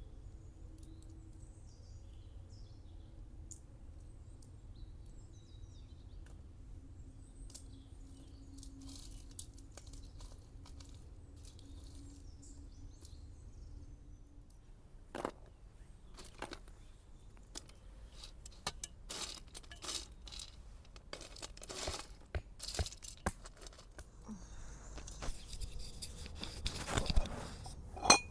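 Low, quiet background for the first half, then from about halfway a run of clicks, crackles and crinkling handling noises, ending in one sharp knock.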